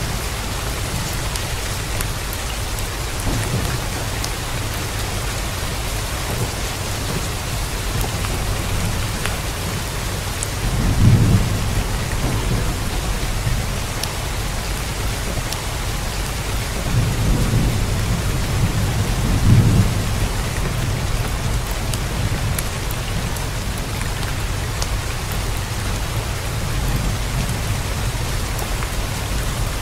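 Steady rain falling, an even hiss throughout, with low rumbles of thunder about a third of the way in and twice more a little past halfway.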